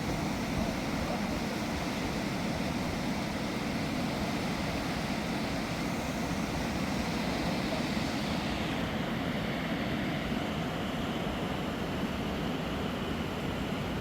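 Mountain river rushing over large rocks: a steady roar of water. The high hiss thins a little about two-thirds of the way through.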